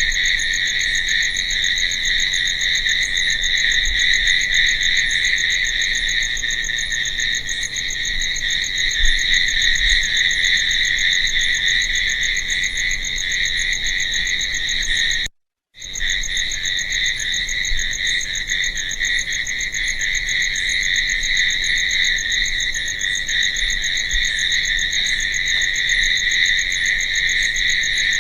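Crickets chirping in a steady, unbroken chorus of high-pitched trilling. The sound cuts out completely for about half a second a little past halfway, then resumes unchanged.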